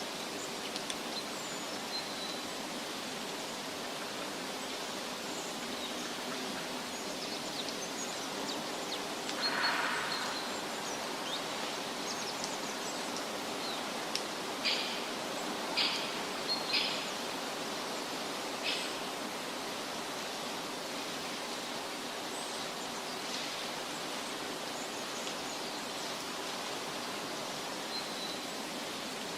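Forest ambience: a steady rushing background noise with a few brief bird chirps, plus a short louder rush and several sharp short sounds partway through.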